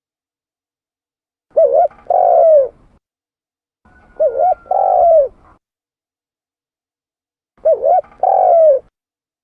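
Spotted dove (tekukur) cooing: three calls a couple of seconds apart, each a quick two-note coo followed by a longer coo that falls away at the end.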